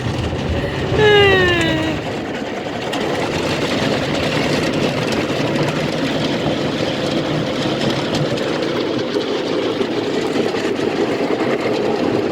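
Automatic car wash working over the car, heard from inside the cabin: a steady, loud rush of water spray and machinery. About a second in, a short tone slides downward in pitch.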